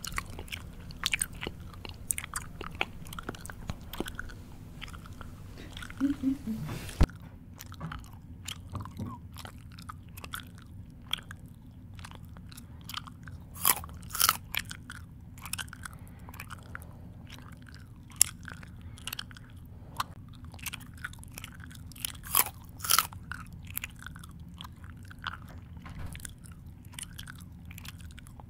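A person chewing and crunching food close to the microphone, with irregular crunches and mouth smacks. The background hiss drops away about seven seconds in.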